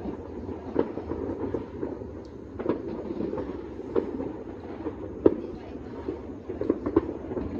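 Distant New Year's fireworks and firecrackers going off across a valley: a continuous rumbling crackle, with about six sharper bangs at irregular intervals.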